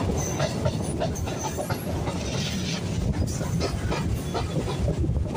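Electric local train (EMU) running along the track, heard from on board: a steady low rumble of the wheels on the rails with irregular clicks and clatter.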